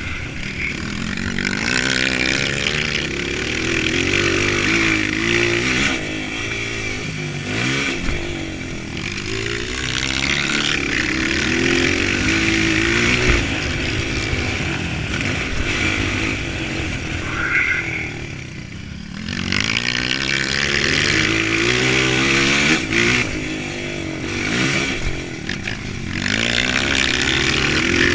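Honda CRF230 dirt bike's air-cooled single-cylinder four-stroke engine revving up and down again and again under racing throttle. The pitch rises and falls with each shift, and the throttle is shut briefly about two-thirds of the way through.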